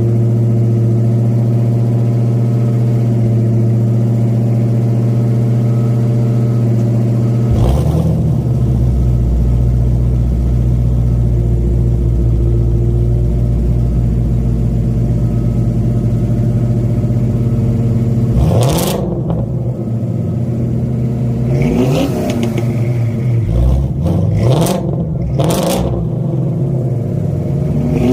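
Ford Mustang engines, a 1965 Fastback and a 2017 Shelby GT350, idling steadily, the idle note deepening about a third of the way in. From past halfway the engines are revved in about six short, sharp blips that rise and fall back to idle.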